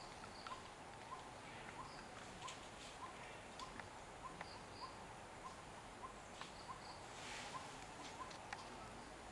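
Quiet outdoor wild ambience: a bird repeats a short rising note about twice a second. Another bird gives a pair of high notes now and then.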